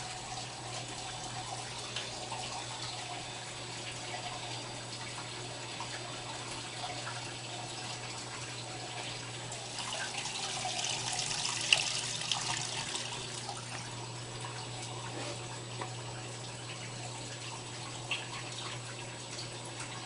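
Water running and splashing inside an Electrolux washing machine during its cycle, over a steady low hum. The water gets louder for a few seconds around the middle.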